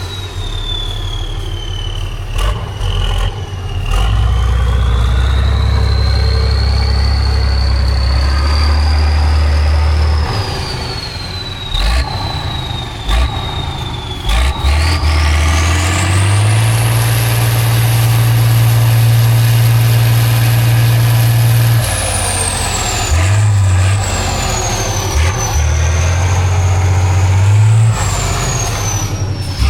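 Heavy off-road truck's diesel engine revving and labouring under load, the revs rising and falling. A high whine follows the revs and climbs steeply about halfway through. Now and then there are sharp knocks.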